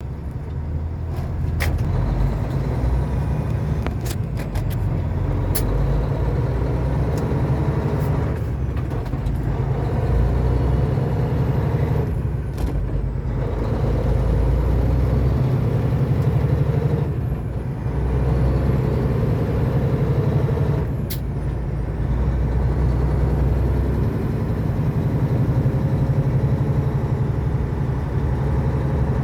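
Cummins diesel engine of a semi truck running steadily, with a few sharp clicks and brief dips in the sound.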